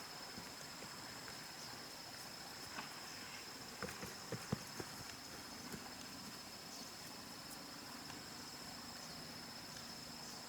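Rainforest insects keeping up a steady, high, slightly pulsing drone, with a few scattered soft clicks and knocks around the middle, like footsteps or twigs on the forest floor.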